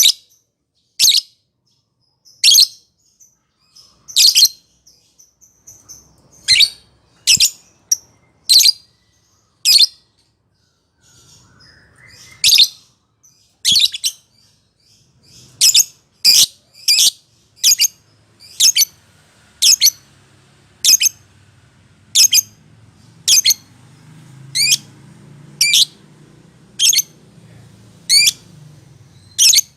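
Lovebird calling: short, sharp, high-pitched calls repeated about once a second, with a pause of a couple of seconds a third of the way in and more regular, closer calls after it.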